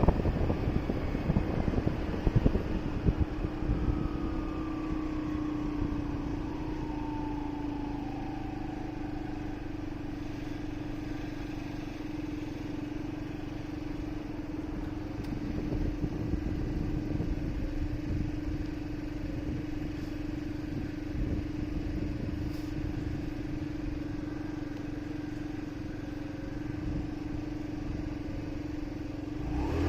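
Motorcycle engine running at a steady, even pitch over a low rumble of city traffic. The engine note begins to climb right at the end.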